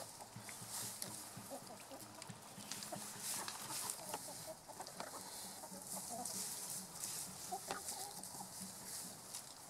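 Chickens clucking softly in short, scattered clucks, over a steady high hiss.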